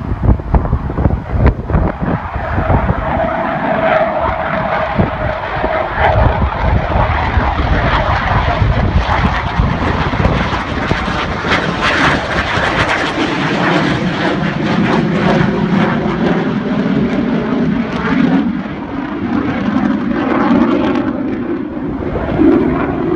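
Military fast jet engine noise, loud and continuous, as a jet passes or departs. A whine is heard for the first few seconds, and the sound turns deeper and rumbling in the second half.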